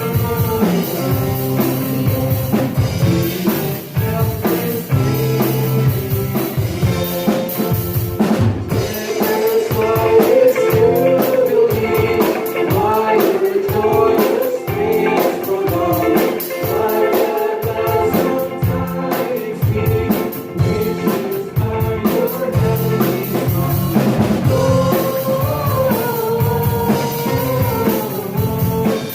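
Live church worship band playing with a drum kit keeping a steady beat, with singing over it.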